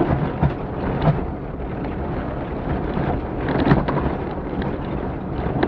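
Off-road rally vehicle driving a rough stage: a steady engine rumble under dense road noise, with a few sharp knocks from the bumpy ground, the loudest about two-thirds of the way through.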